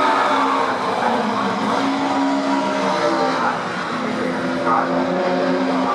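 Classic touring race cars running at high revs on the circuit, several engines sounding at once with steady, overlapping notes that shift a little in pitch.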